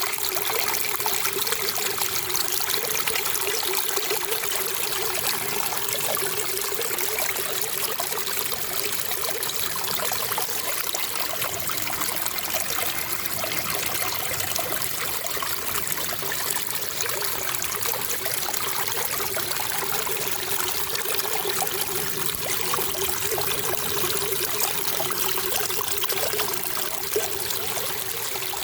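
Running water trickling steadily and without a break, an even splashing hiss.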